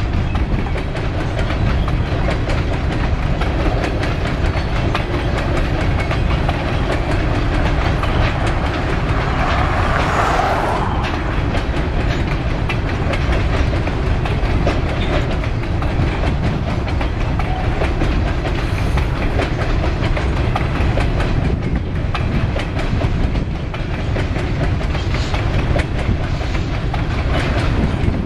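Canpotex covered hopper cars of a long potash train rolling past: a steady, loud rumble of steel wheels on rail with a constant run of clicks and clanks, swelling briefly about ten seconds in.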